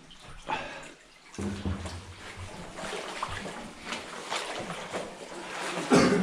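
Water sloshing and splashing as a person wades through it in waders, with irregular small splashes and a louder splash near the end.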